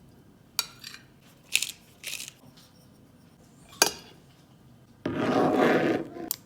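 Kitchen food-preparation sounds: a few short clinks and knocks of utensils and dishes, then a louder scraping rub of a little over a second, about five seconds in.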